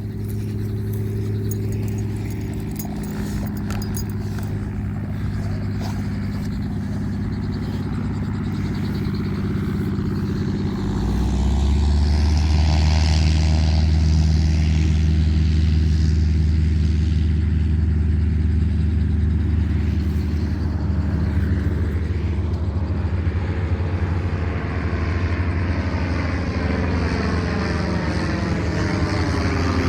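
Helicopter running on the ground: a steady low engine and rotor drone that grows louder about eleven seconds in as it works up toward take-off.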